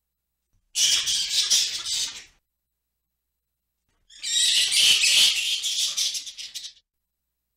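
Fruit bat (flying fox) calling: two harsh, rattling screeches, the second longer than the first.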